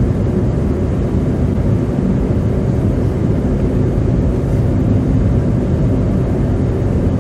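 Steady road noise inside a car cabin driving on a slushy, snow-covered road: tyres in the slush, the engine, and the defroster fan blowing. A low, even rumble with a faint hum under it.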